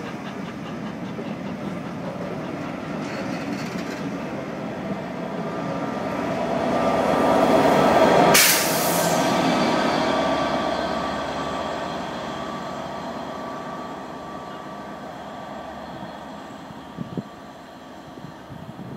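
A train hauled by the steam locomotive 60163 Tornado passes by on the rails. Its rolling sound builds to a peak about eight seconds in, with a brief loud rushing burst, then fades as it draws away.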